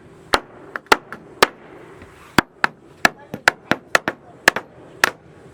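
A hammer striking wood, nailing down floor planks, in a quick uneven series of sharp blows, about two to four a second.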